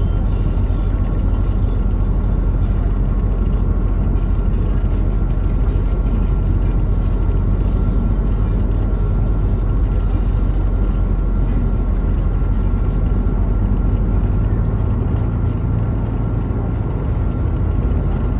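MAZ-216 city bus heard from inside while it drives: a steady low engine and drivetrain rumble with road noise and a faint steady high whine.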